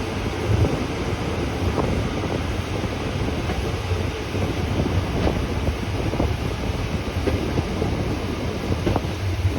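Rhaetian Railway metre-gauge regional train running: a steady low rumble of wheels on the track, with scattered faint clicks and rattles.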